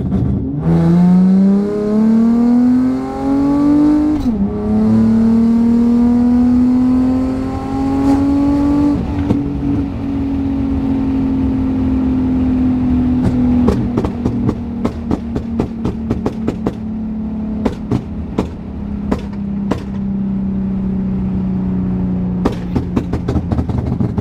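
Tuned Infiniti sedan's engine making a hard pull, heard in the cabin with the rear windows cracked: the revs climb, drop at a gear change about four seconds in, and climb again for about five seconds. It then settles to a steady cruise, with a run of sharp exhaust pops and crackles from about halfway on.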